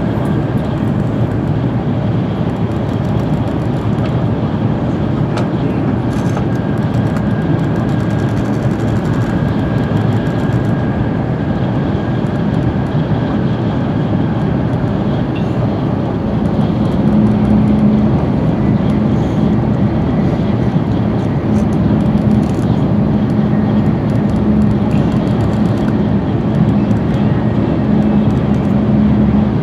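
Shinkansen bullet train running at speed, a steady rumble heard from inside the passenger car. From about halfway a low hum comes and goes in pulses, and the rumble gets slightly louder.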